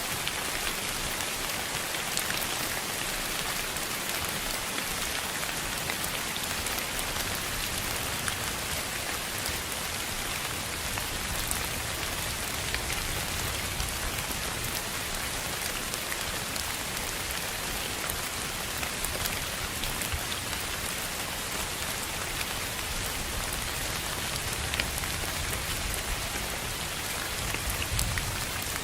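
Steady rain falling on a surface, a dense even hiss speckled with the ticks of individual drops. A low rumble rises near the end.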